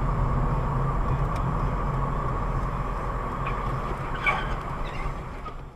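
Steady low rumble of a moving road vehicle, with a brief higher-pitched sound about four seconds in.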